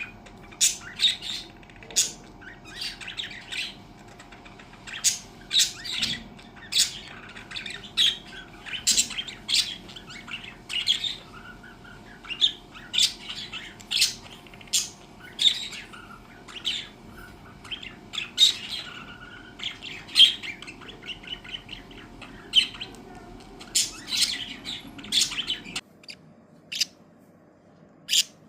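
Budgerigars chirping and squawking, a fast run of short, high chirps, over a steady background hum that cuts off near the end.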